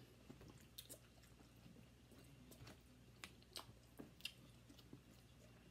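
Faint chewing and mouth sounds of people eating, with scattered soft clicks.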